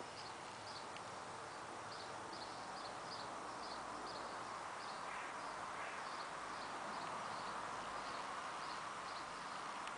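A garden bird calling over and over: short high chirps, about two to three a second, over a steady background hiss.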